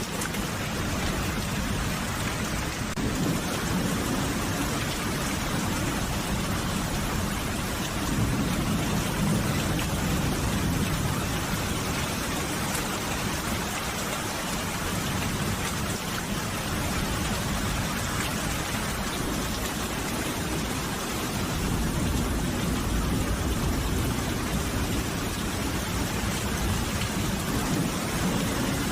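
Steady heavy rain falling, with low rumbles of distant thunder swelling and fading twice.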